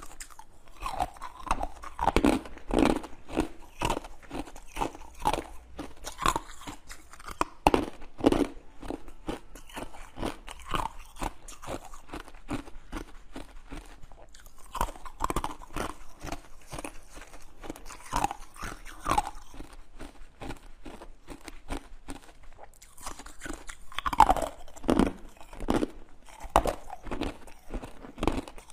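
Close-miked crunching and chewing of hard frozen pieces, a dense run of crisp crunches with a few louder bites.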